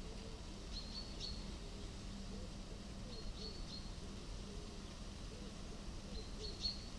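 Short, high bird chirps in small clusters, three times: about a second in, a little past three seconds, and near the end. Under them, a faint steady outdoor background with a low hum.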